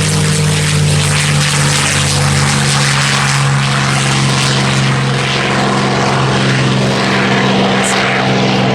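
P-51 Mustang's piston engine at high power during its takeoff, a loud, steady propeller-driven drone whose pitch shifts slightly a couple of seconds in.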